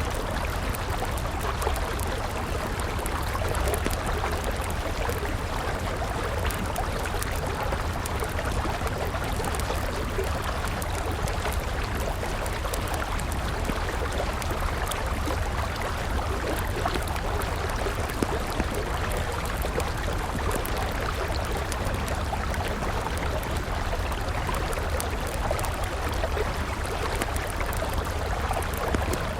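A river flowing steadily, with a wood campfire crackling and popping in small, frequent clicks over it and a steady low rumble underneath.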